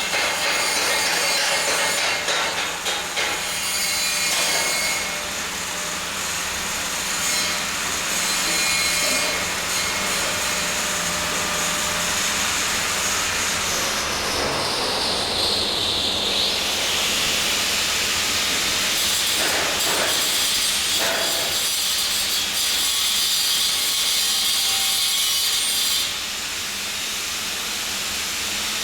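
Steady metalworking noise in a welding workshop. A high tone slides down about halfway through, then holds until it drops away near the end.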